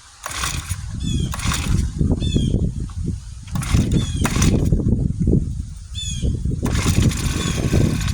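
Small Honda four-stroke engine being cranked on its recoil starter: several quick pull-cord pulls, each a short whirring rasp, over a low rumble, while the hard-starting engine is tried on starting fluid.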